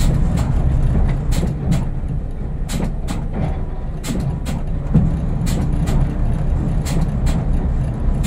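Diesel multiple unit's engine and running gear heard from the driving cab as the train creeps slowly: a steady low rumble, with sharp clicks and rattles scattered through it.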